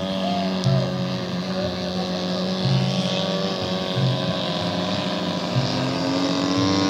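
Engines of radio-controlled model airplanes running, a steady buzzing drone. More than one engine is heard at once, and near the end one of them rises in pitch.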